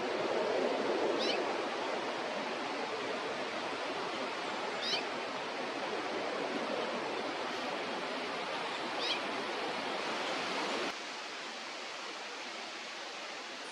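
A bird gives three short, high, wavering calls about four seconds apart over a steady rushing background noise, which drops a little near the end.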